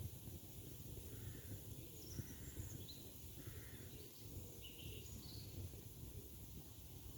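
Wood campfire burning with a low steady rumble and a few faint crackles, while small birds give several short chirps in the background.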